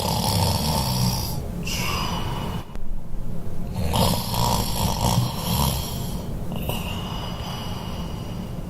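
Cartoon snoring sound effect: rasping snores, with a high whistle on the out-breath heard twice, about one and a half seconds in and again near the end.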